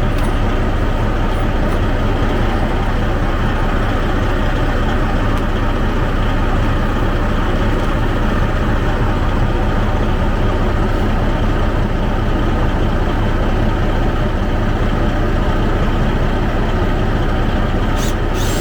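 2004 Freightliner Columbia's diesel engine idling, a steady unbroken drone, with a short click near the end.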